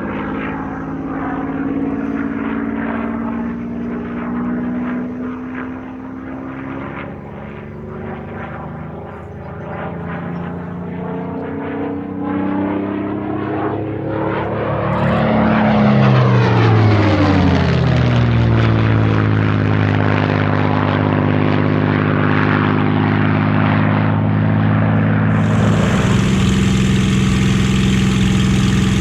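A Merlin-engined piston warbird flying a display pass. Its propeller drone swells and drops in pitch as it goes by, about halfway through. Near the end the sound changes suddenly to a steady, louder engine note.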